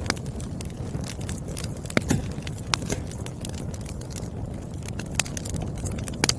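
Burning firewood crackling and popping over a low steady rumble of the flames, with irregular sharp pops, the loudest about two seconds in.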